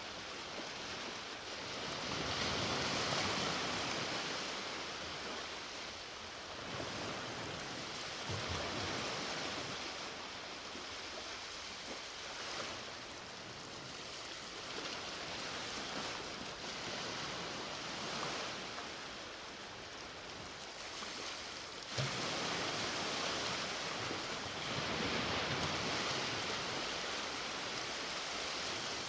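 Ocean waves washing onto a beach: a steady surf hiss that swells and eases every few seconds, with a sudden louder surge about two-thirds of the way through.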